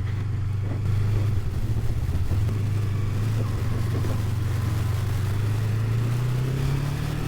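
Motorcycle engine running steadily at low speed as the bike is ridden, its pitch rising slightly near the end.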